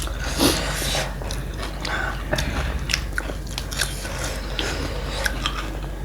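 A person biting and chewing crunchy street snacks, with crisp crackling crunches scattered throughout; the loudest bite comes about half a second in.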